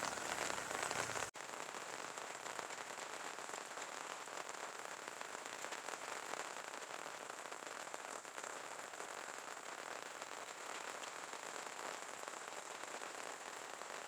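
Steady light rain falling, an even hiss of fine drops. A little over a second in, the sound changes abruptly and loses its low rumble, then stays even.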